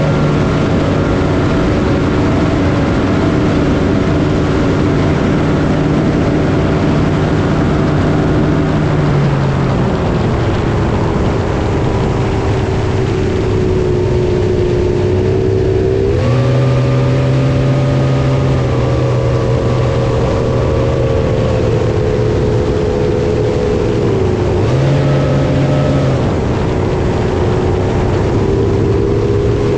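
Boat engine running under way on the water, with wind and water rushing throughout. The engine note drops about a third of the way in, climbs again about halfway, and rises briefly for a second or so near the end as the throttle is eased and opened.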